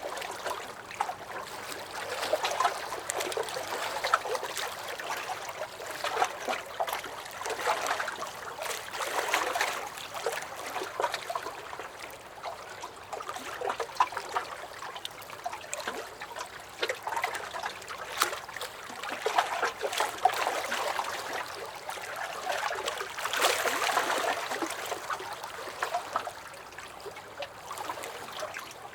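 Small lake waves lapping and splashing against a dock, the water sloshing and trickling in uneven swells every few seconds.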